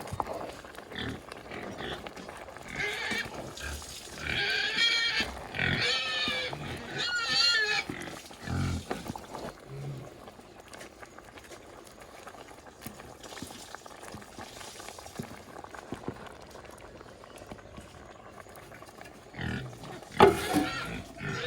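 Domestic pigs squealing in a run of high, wavering calls from about three to eight seconds in, followed by a few low grunts. After a quieter stretch there is a loud burst of calling near the end.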